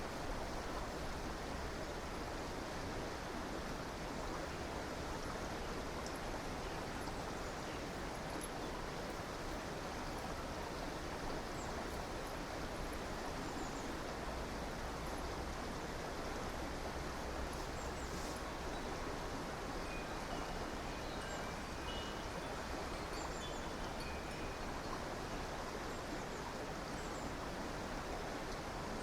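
A river or stream flowing steadily, with faint, short, high bird chirps scattered over it, more of them after about twenty seconds.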